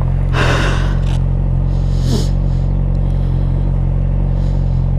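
Suzuki GSX-R600's inline-four engine idling steadily, with two brief rustling noises about half a second and two seconds in.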